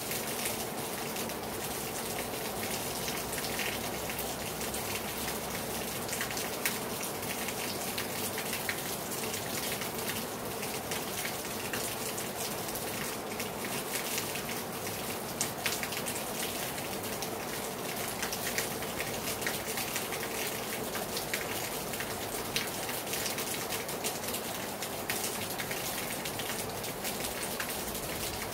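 Heavy rain falling hard on a terrace: a steady hiss of rain with many close drops pattering and splashing on the surface.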